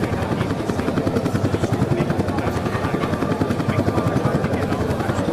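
Chetak helicopters flying past, with a steady rapid rotor beat over a loud engine noise.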